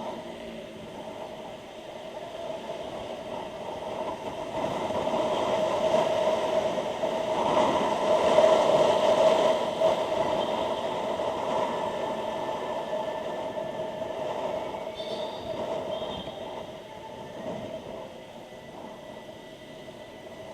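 Motorcycle riding noise picked up by a helmet's microphone: a steady drone of engine, road and wind with a constant hum, swelling louder midway and then easing off.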